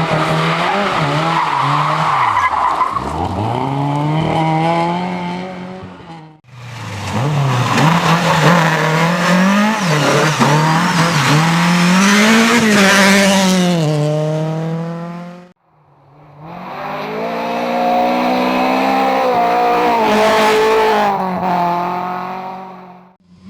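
Competition cars driven hard, engines revving up and dropping back again and again through gear changes and throttle lifts, with tyre noise. The sound is three separate passes cut together, broken off abruptly about six seconds in and again near sixteen seconds.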